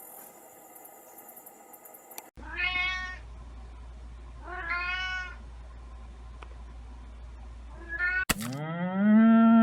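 Cat meowing twice, each meow under a second and falling in pitch. Near the end a cow begins a loud, low moo.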